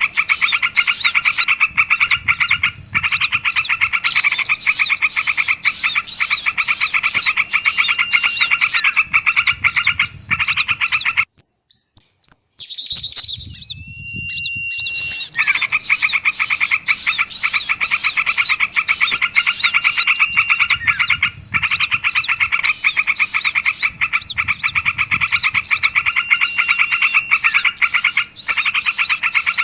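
Bird-lure recording of many small songbirds chirping rapidly in a dense, busy chorus. About eleven seconds in the chorus breaks off for about four seconds, with only a single held whistle, then resumes.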